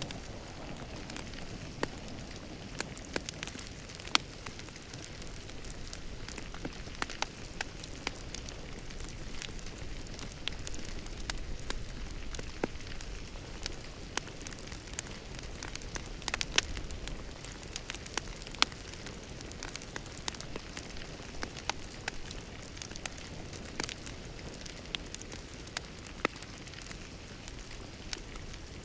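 Fire crackling in a fireplace: a steady hiss of burning with frequent sharp, irregular pops and snaps.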